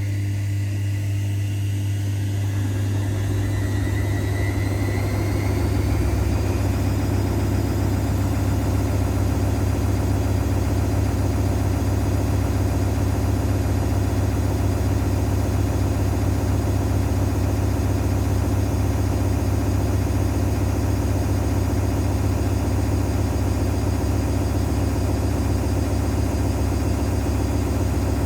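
Zanussi washing machine on its spin cycle: the motor's whine rises in pitch over the first several seconds as the drum speeds up, then holds steady over a deep hum at full spin speed.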